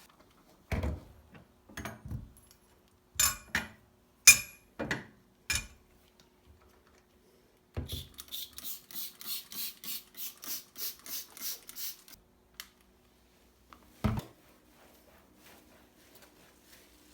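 Dishes and kitchenware knocked and clinked as they are handled, then a run of quick, even strokes, about three a second for some four seconds, and one more knock near the end. A faint steady hum runs underneath.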